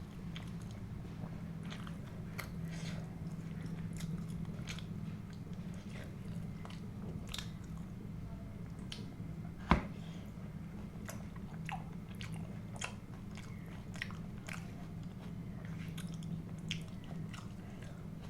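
Close-up eating sounds: a person biting and chewing food in irregular small clicks and smacks, with one sharp louder click about halfway through, over a steady low hum.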